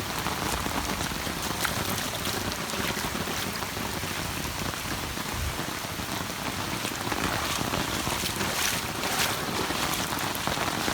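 Heavy rain falling steadily, an even hiss with a few sharper drop hits now and then.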